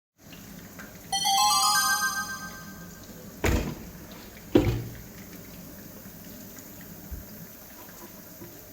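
A short chime of bright notes entering one after another in a rising run, ringing for about two seconds, then two sharp thuds about a second apart, the second louder.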